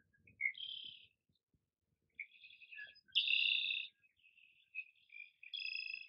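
Songbirds singing, about four short high phrases in turn, the loudest and longest about three seconds in.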